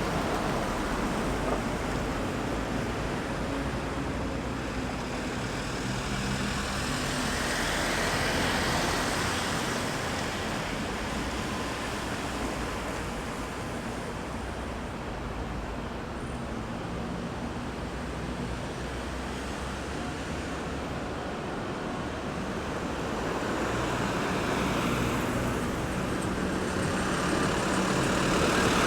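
Road traffic passing at a roundabout: a continuous wash of car and engine noise, with vehicles swelling past about a third of the way in and again near the end.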